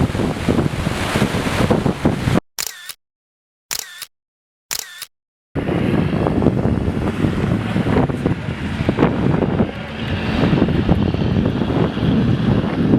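Rushing wind and road noise on the microphone, cut to silence several times with short bursts between, then steady again from about five and a half seconds in.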